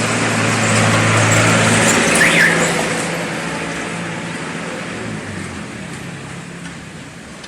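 A motor vehicle passing by: engine hum and road noise build to a peak about two seconds in, then slowly fade away.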